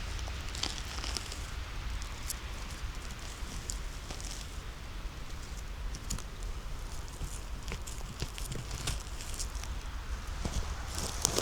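Dry leaf litter and small twigs crackling under footsteps on the forest floor, in irregular clicks and crunches over a steady low rumble.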